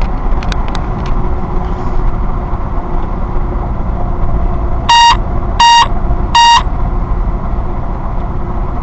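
Steady low rumble of a running vehicle, with three short electronic beeps about two-thirds of a second apart near the middle.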